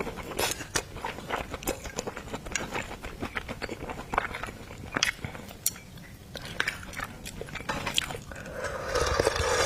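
Close-miked eating sounds of seafood: wet chewing and lip smacks, a string of short sharp clicks, growing denser and louder near the end.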